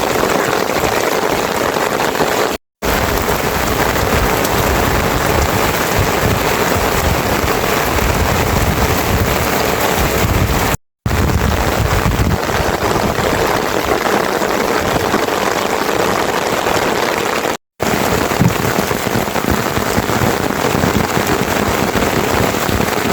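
Steady heavy rain, a loud, even rush of noise. It drops out to silence for an instant three times.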